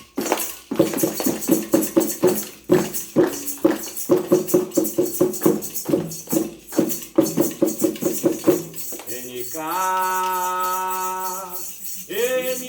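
Afro-Brazilian ritual music for Xangô: fast, steady percussion with shaken jingles and rattles. About nine seconds in the beat drops away and a voice holds one long sung note, and singing starts again near the end.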